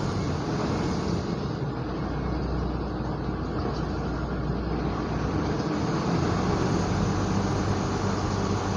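Steady rumble of vehicle noise: a low hum with a hiss over it, no single event standing out, a little louder in the second half.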